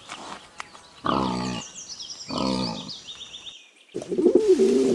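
A piglet gives two short grunting squeals about a second apart. Near the end, a pigeon starts cooing.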